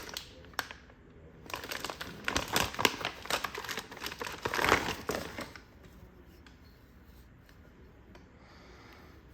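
Packaging crinkling and rustling as it is handled, in irregular bursts over about four seconds, then stopping, leaving only a few faint ticks.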